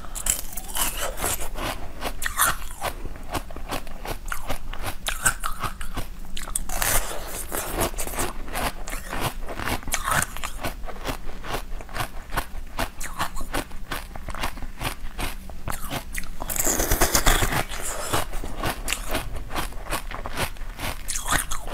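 Close-miked crunching and chewing as a hard frozen treat is bitten and chewed, a steady run of small crackles and crunches. There is a louder burst of crunching about seventeen seconds in.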